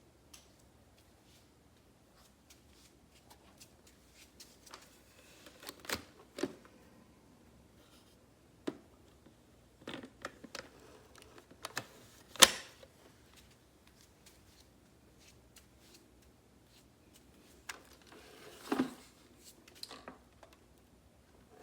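Scattered clicks, knocks and rustling from a Kenmore bagless upright vacuum being handled with its motor off, the loudest a single sharp knock about twelve seconds in.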